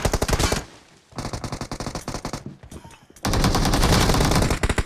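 Rapid automatic gunfire in a team shooter video game: a loud burst that stops about half a second in, a fainter stretch of shots, then loud sustained automatic fire from about three seconds in.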